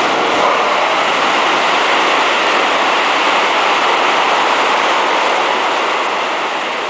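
Keisei electric train passing through the station at speed without stopping: a loud, steady rush of wheels on rail and air, easing off near the end.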